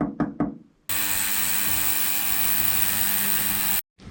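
Ultrasonic cleaner running: a loud, even hiss with a steady hum, lasting about three seconds, starting abruptly and cutting off suddenly. It is cleaning rusty exhaust bolts. Before it, a fast series of short pitched pulses fades out.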